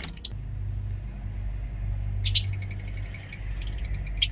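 Lovebirds calling: a short burst of high chirps at the start, a rapid run of high, even chirps about two seconds in lasting about a second, and another sharp call near the end, over a low steady rumble.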